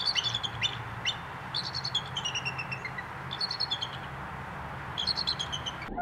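Small songbird singing at normal speed: short phrases of high, quick chirps, several of them sliding down in pitch, repeated about every second or two, with a faint steady low hum underneath.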